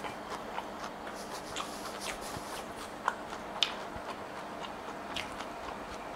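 A person chewing crispy corn and shrimp tempura with the mouth closed, giving faint, scattered crunches and clicks.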